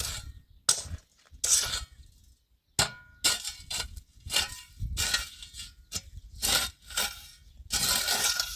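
Irregular metallic clanks and clinks, a dozen or so, some leaving a short ringing tone, like metal pots and utensils being handled.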